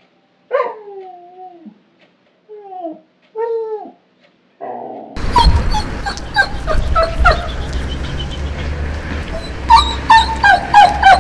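Dogs whining. First come several separate high cries, each sliding down in pitch. About five seconds in, another dog takes over with short, rapid whimpering whines over a steady low rumble.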